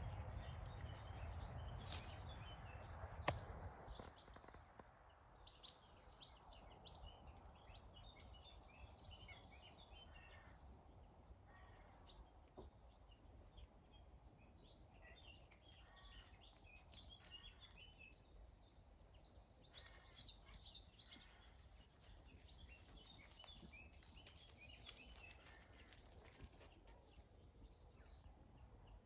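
Faint birdsong: small birds chirping and twittering on and off, over a low rumble that dies away about four seconds in. A single sharp click comes about three seconds in.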